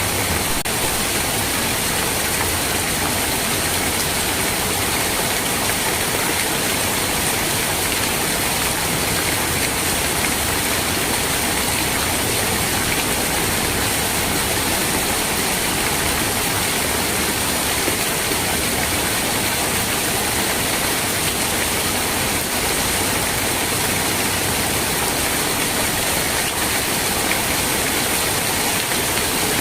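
Steady rain, an even hiss with no pauses or single drops standing out.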